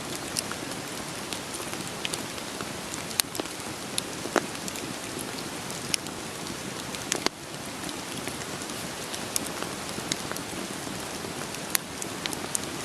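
Steady rain falling, with a wood fire crackling over it in sharp, irregular pops about once a second. The rain hiss dips suddenly about seven seconds in.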